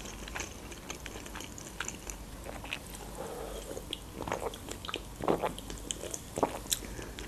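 Mouth sounds of chewing a bite of pide (Turkish flatbread), with small wet clicks throughout. In the second half come several gulps as she drinks from a can of soft drink.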